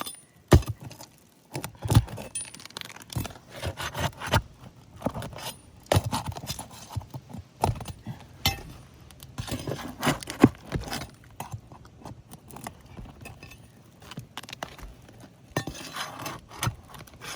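Metal tool clinking, knocking and scraping against roof shingles and nails as nails are pried out of a worn shingle: a string of irregular sharp clicks and knocks.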